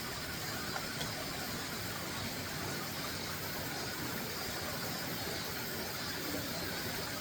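Mountain stream rushing steadily, running high after rain.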